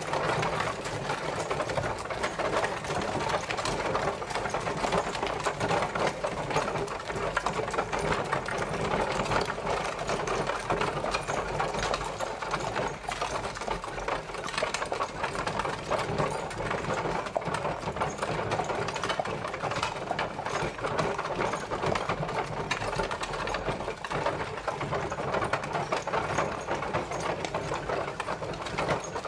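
Horse-drawn carriage rolling along: a steady, dense rattling clatter over a low rumble.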